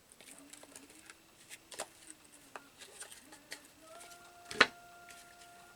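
Small taps, clicks and rustles of craft materials and tools being handled on a tabletop, with one sharp, loud click near the end. Faint steady tones from a television in the background.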